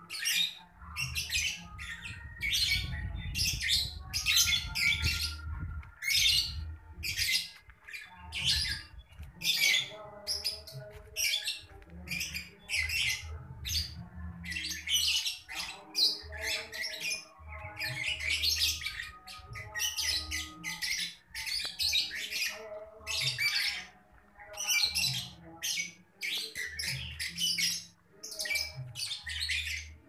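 Birds chirping and calling in many short, high notes in quick succession, over fainter lower held tones.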